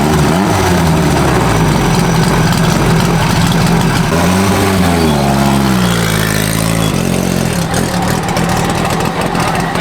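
Car engine running, its pitch rising about four seconds in, then dropping back in steps.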